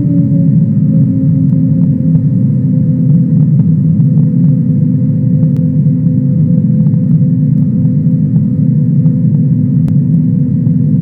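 Airliner engines heard inside the cabin: a loud, steady low drone with a level hum on top. The hum settled to a lower pitch just before this, so the engines are holding steady thrust.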